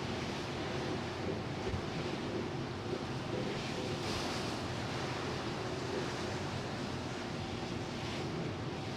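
A ferry under way at sea: a steady rush of water washing along the hull and wind on the microphone, swelling slightly about four seconds in and again near the end, over a faint steady hum from the ship.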